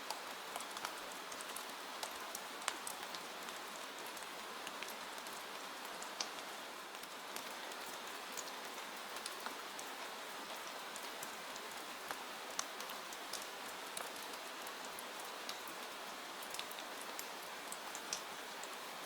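Steady rain falling, an even hiss scattered with many sharp, irregular ticks.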